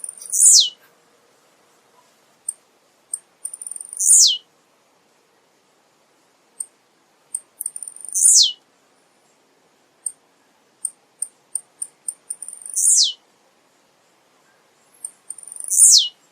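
Male blue-black grassquit (tiziu) singing: each song is a few quick, very high ticks ending in a short buzzy note that sweeps down in pitch. The song repeats about every four seconds, five times.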